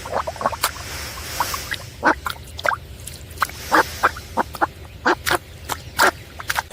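A string of short, sharp animal calls, irregular and several a second, over a low steady background rumble.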